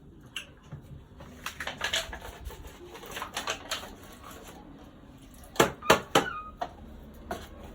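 A series of sharp knocks and clicks, uneven in spacing, with a cluster of three loud knocks about six seconds in.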